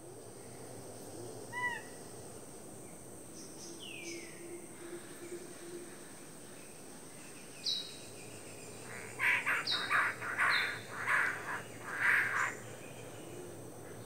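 Male king bird-of-paradise calling: a short rising note, a falling whistle, then a quick run of loud harsh notes near the end. A steady high insect drone runs underneath.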